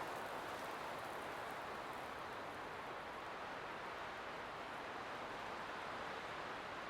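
Light wind blowing steadily as a soft, even hiss without gusts.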